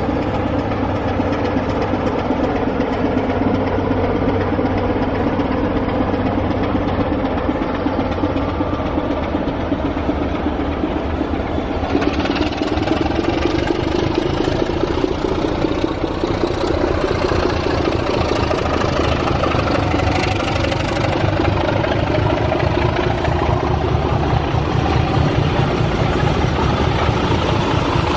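Railway diesel locomotive engine running steadily with a low hum; about twelve seconds in the sound grows brighter and its note slowly rises.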